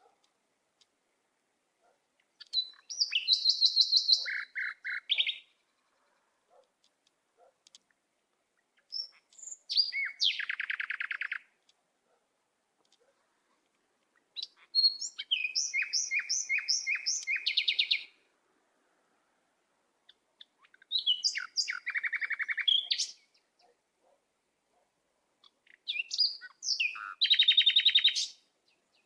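A songbird singing in five separate phrases of fast, high, repeated chirping notes, each phrase two to three seconds long with silent gaps between.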